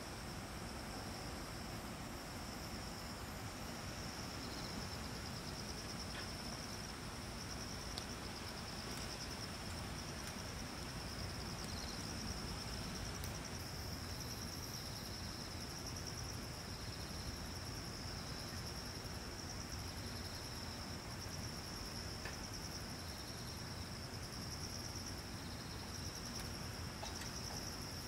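Insects, likely crickets, trilling steadily in a chorus with a fast pulsing rhythm, with shorter chirps from other insects coming and going, over a faint even background hiss.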